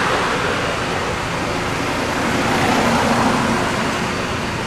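Steady rush of vehicle and street noise with a low engine hum beneath, swelling at the start and again about three seconds in.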